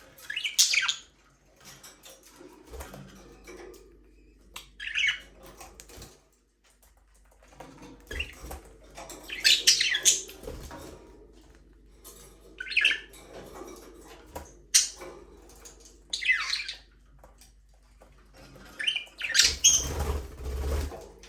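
Budgerigars chirping and squawking in short scattered bursts every few seconds, with a busier run of calls near the end.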